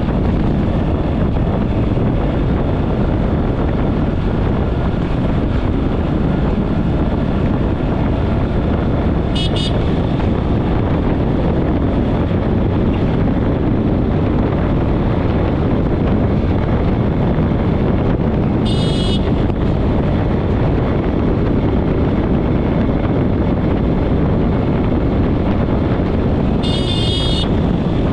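Steady roar of floodwater pouring through the Derjang dam's three open spillway gates. Four short high-pitched toots cut through it: at about a third of the way in, at two thirds, and twice near the end.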